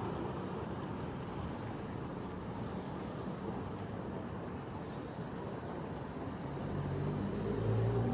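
Street traffic: steady road noise, with a vehicle's engine growing louder over the last second or so as it draws nearer.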